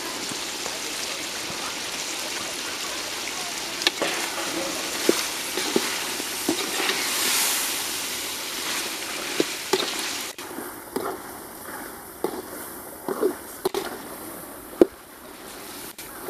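Masala-coated chicken sizzling and frying in oil in a large metal pot, with sharp knocks now and then from a utensil stirring against the pot. About ten seconds in the sizzle suddenly drops to a quieter hiss, with a few more knocks.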